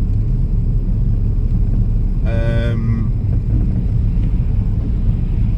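SEAT Leon FR on the move, heard from inside: a steady low drone of engine and road noise. A little over two seconds in, a brief steady tone sounds for about half a second.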